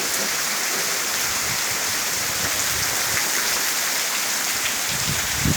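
Heavy rain falling steadily, a dense even hiss, with a few low thumps near the end.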